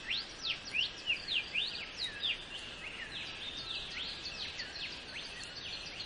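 Several birds calling together: many short whistled notes, some rising and some falling, several a second, thinning out after about halfway.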